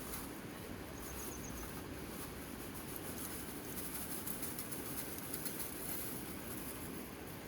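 Steady rain, a constant hiss dotted with many small ticks of drops, with a short run of faint high chirps about a second in.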